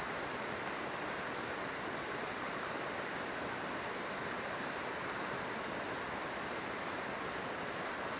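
River water flowing and rushing steadily, an even unbroken hiss.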